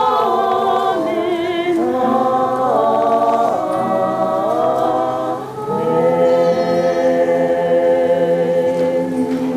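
A choir singing, several voices together moving through a run of notes, then a short breath about five and a half seconds in before a long held chord.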